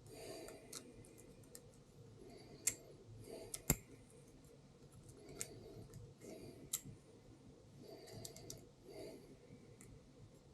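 Scattered light clicks and small metal taps from hand tools and parts being handled during cylinder-head work, with the sharpest click nearly four seconds in.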